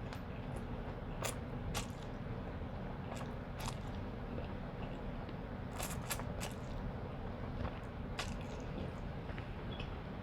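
Seafood boil eaten by hand close to the microphone: scattered sharp cracks and crunches of shells being broken and bitten, with chewing and wet squishing in between.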